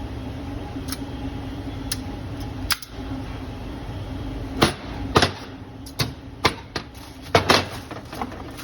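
Sharp knocks and clanks of metal parts and tools being handled while working on a car's clutch release bearing, about six in the second half, over a steady low hum that fades out about five seconds in.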